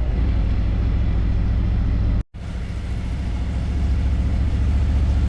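Harley-Davidson motorcycle V-twin engine running steadily with a low, pulsing beat. The sound cuts out for a split second about two seconds in, then carries on.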